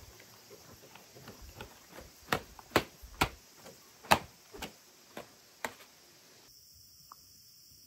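A run of sharp, irregular knocks among fainter taps, with about eight loud ones between two and six seconds in.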